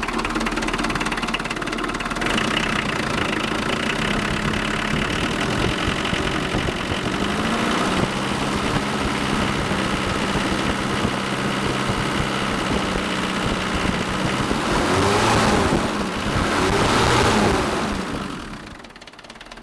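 Mitsubishi Pajero's Astron 4D55 four-cylinder turbo diesel idling from cold, not yet warmed up. Near the end it is revved twice, the pitch rising and falling each time, and then it settles back.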